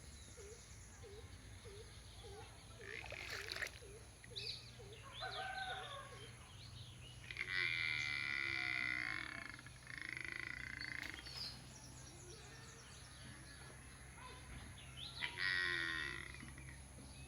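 Animal calls: a run of short chirps about twice a second, then three loud, drawn-out calls, over a low steady hum.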